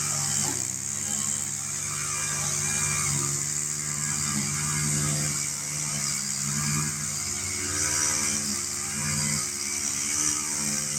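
Mowing tractor's engine running steadily under load, its pitch dipping and recovering every second or two as it cuts tall, thick grass, with a constant high hiss over it.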